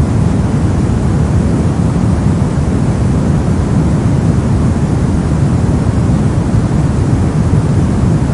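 Steady generated white noise: an even, unchanging rush, heavier in the bass than in the treble.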